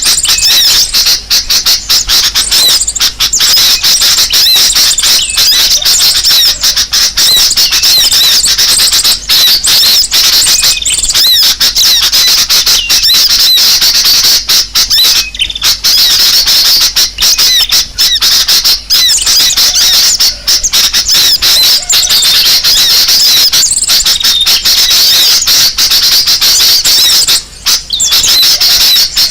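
A dense chorus of many small birds calling at once: rapid, high-pitched chirps, squeaks and twitters running on without a break. It is a noisy mixed-bird lure recording, the agitated sound of a flock that is played to draw other birds in.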